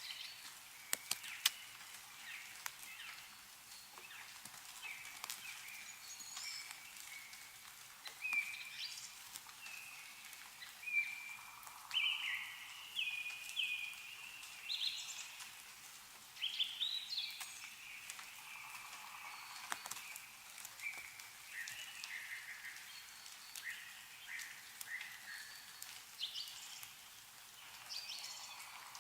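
Small songbirds chirping and trilling in short, repeated phrases, with a few sharp drips of melting snow falling from the trees, the first cluster about a second in.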